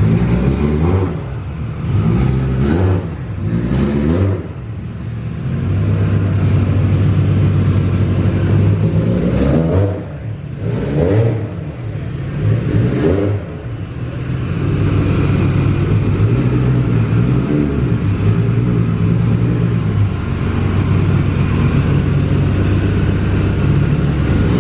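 Built Toyota 2JZ inline-six in a Nissan 240SX being revved. It gives several quick blips in the first four seconds and three more revs between about nine and thirteen seconds in, then settles to a steady idle.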